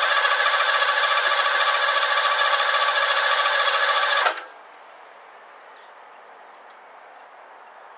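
Starter motor cranking the 1984 Ford Mustang GT350's engine, an even, fast rhythmic whir, during an attempt to start a car that has not been running; the engine does not catch, and the cranking stops suddenly about four seconds in, leaving a faint hiss.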